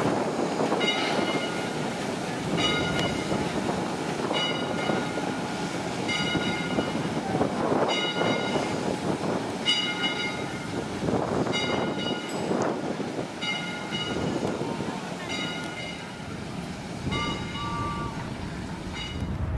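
A train running, with a steady rolling rumble, while a bell rings evenly a little more than once a second.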